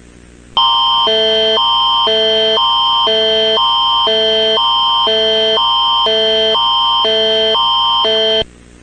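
Emergency alert attention signal, the Canadian Alerting Attention Signal: a loud electronic chord that switches between a higher and a lower pitch about twice a second over a steady high tone. It starts just after half a second in and cuts off abruptly near the end, announcing an emergency alert broadcast.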